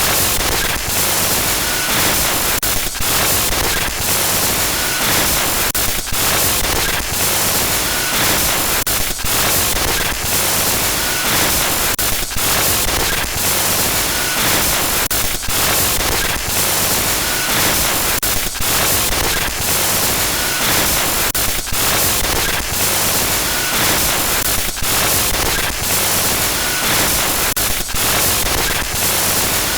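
Glitch-noise horror sound effect: loud, harsh static hiss that runs without a break, riddled with rapid stuttering dropouts, and a short high blip now and then.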